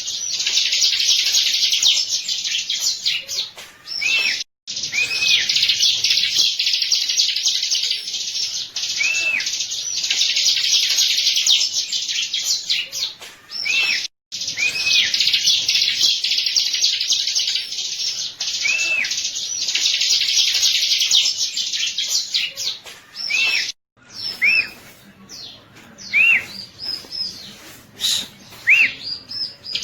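Bar-winged prinia (ciblek) song: long runs of rapid, high, scratchy chattering lasting several seconds each, separated by short arched whistled notes. The song cuts out suddenly three times, about every ten seconds, as in an edited looped recording.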